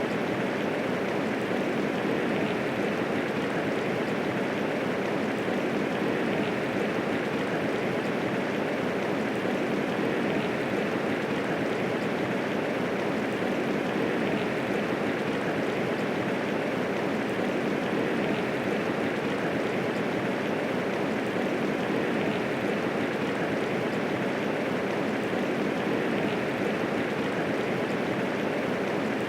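Steady medium rainfall: an even, unbroken hiss of rain falling, with no thunder.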